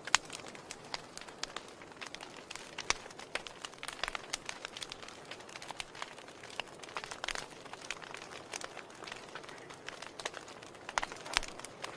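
Wood fire crackling in a fireplace: a steady hiss of burning with irregular sharp pops and snaps, a loud pop right at the start and a cluster of louder snaps near the end.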